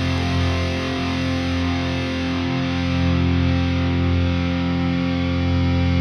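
Heavy metal track: a distorted electric guitar chord held steadily and ringing out.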